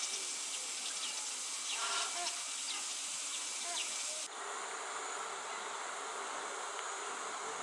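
Cicadas droning in a steady high hiss, with a few short high chirps in the first half. A little over halfway through, the sound changes abruptly to a denser drone.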